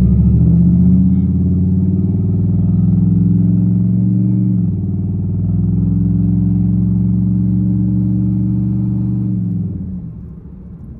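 Cammed, straight-piped V8 exhaust of a 2008 Impala SS (5.3 L LS4) droning at a steady pitch while driving, with a brief dip about halfway through and the level falling away near the end.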